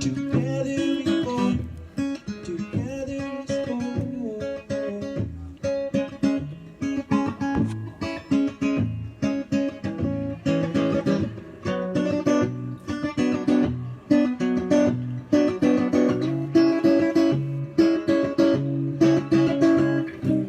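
Guitar strummed in a steady rhythm, playing chords through the closing bars of a live song, the last chord left ringing near the end.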